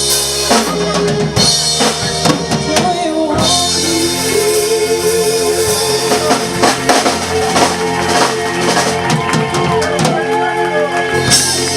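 Live band music led by a drum kit, with kick and snare hits over held, sustained chords.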